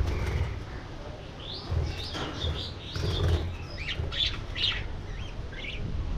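Budgerigars chirping in quick short bursts, with the low flutter of wings flapping in the aviary. The chirping picks up about a second and a half in.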